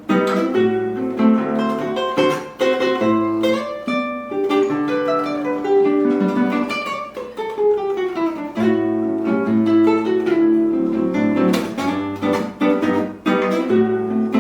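Acoustic guitar music: quick plucked melody notes over repeating bass notes, with a falling run of notes about halfway through.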